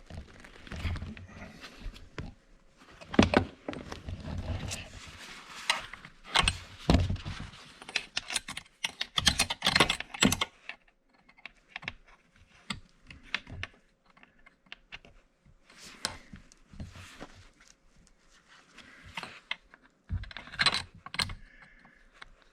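Irregular metallic clicks, knocks and scrapes of a wrench working on a chainsaw's bar nuts and chain tensioner as the loose chain is tightened. The clicks are busiest in the first half and sparser later.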